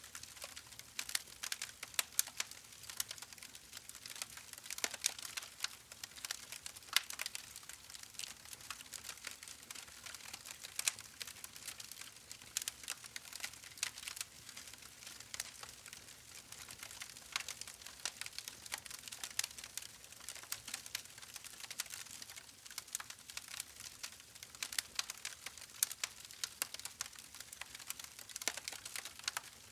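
Wood fire burning in a fireplace, crackling and popping in quick irregular snaps over a faint steady hiss.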